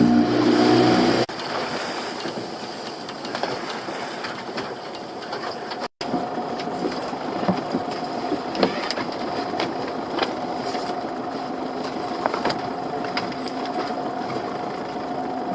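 Small fishing boat's motor running steadily, with many scattered clicks and knocks from gear on deck. A louder, lower engine note cuts off about a second in.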